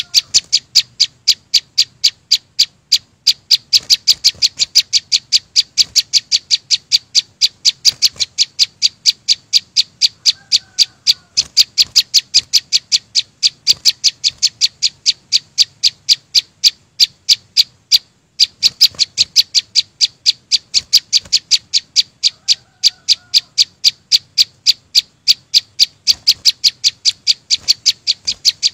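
A chim sâu xanh, a small green songbird, calling in a rapid, evenly spaced series of sharp high notes, about three a second. The series runs on without a break except for a short pause about 18 seconds in.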